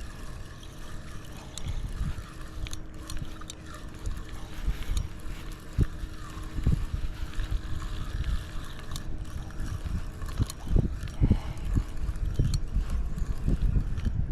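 Wind buffeting the microphone over water lapping and slapping against a kayak hull, with scattered small clicks and knocks.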